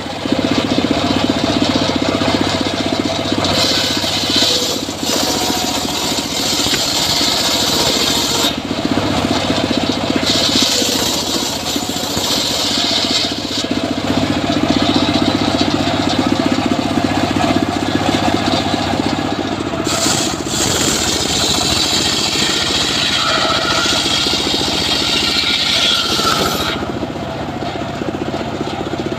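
Homemade engine-driven circular sawmill running steadily while its blade rips through teak. A harsh, rasping cutting noise rises over the engine hum in several stretches of a few seconds each, the longest near the end.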